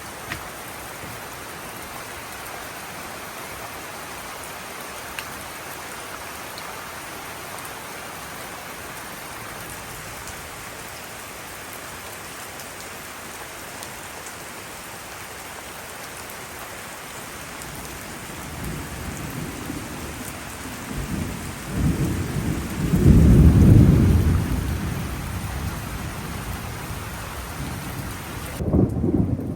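Heavy downpour falling steadily in a mountain rainstorm. From about two-thirds of the way in, thunder rumbles, loudest a few seconds later, with another rumble near the end.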